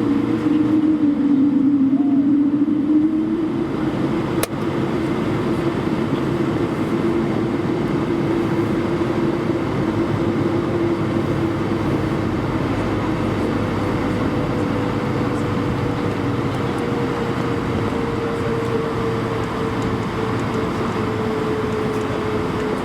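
Airbus A220-300 cabin noise during taxi: its Pratt & Whitney PW1500G turbofans at idle give a steady hum with two tones that drift slowly in pitch. A single sharp click sounds about four seconds in.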